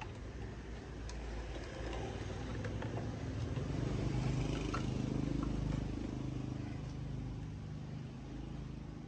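An engine running with a low hum that grows louder about a third of the way in, holds, then eases off toward the end.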